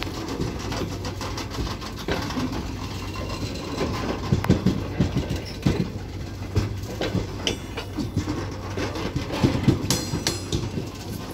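Open freight wagons rolling slowly past, their wheels knocking and clanking over the rail joints with a steady low rumble underneath. A brief high-pitched metal squeal comes twice in the second half.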